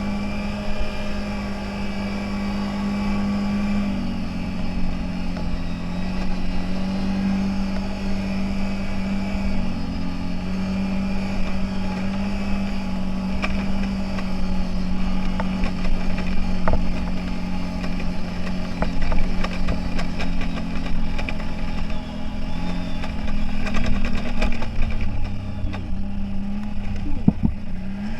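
CFMoto 1000's V-twin engine running at a steady speed, its pitch stepping up slightly about four seconds in and wavering a little after. A few light clicks come near the end.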